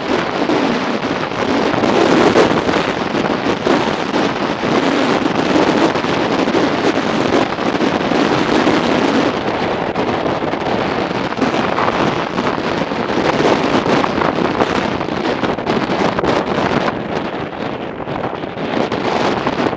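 Heavy wind noise on the microphone of a moving motorcycle in strong wind: a dense rush that rises and falls with the gusts.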